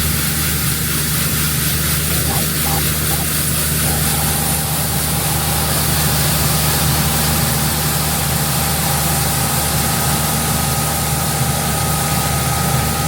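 Combine harvester running steadily under load while cutting corn: a deep diesel engine hum under heavy mechanical noise. A thin whine joins about a third of the way in, and a second, higher one near the end.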